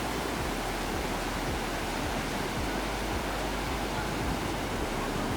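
Jaldhaka river water rushing and spilling at a barrage, a steady even noise.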